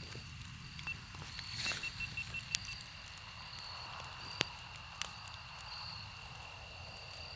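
Campfire crackling in light rain: a few scattered sharp pops and taps over a steady low outdoor rumble, with a faint thin high tone.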